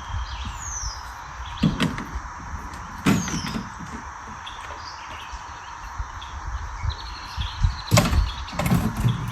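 Small birds chirping, with short descending whistles, over a steady outdoor background. Four dull knocks or thumps come through, two in the first few seconds and two close together near the end.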